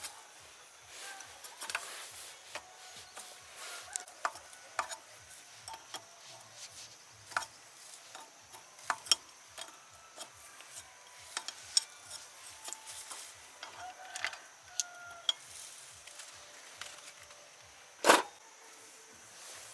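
Hand-tool work on machine parts: scattered light clicks and taps at irregular intervals, with one much louder knock near the end.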